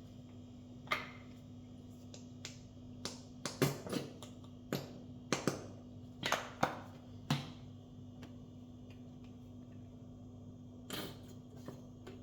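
A run of light knocks and clicks from gear being handled and packed, about a dozen in the first seven seconds and a couple more near the end, over a steady low hum.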